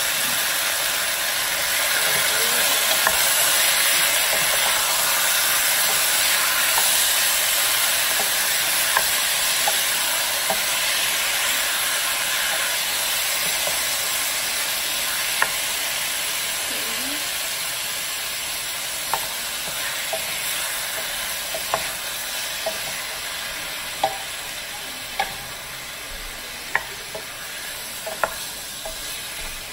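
Chicken pieces sautéing with onion and ginger in a pot: a steady sizzle that slowly dies down. A wooden spoon stirs the chicken, knocking sharply against the pot now and then, more often in the second half.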